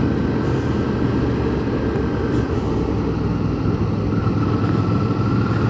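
Motorcycle engine running at a steady cruise, with road and wind noise.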